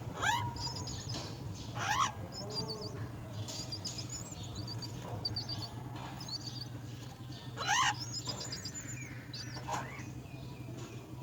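Birds calling at a nest: quick series of short, high chirps throughout, broken by four louder sweeping calls, about at the start, two seconds in, near eight seconds and near ten seconds. A steady low hum runs underneath.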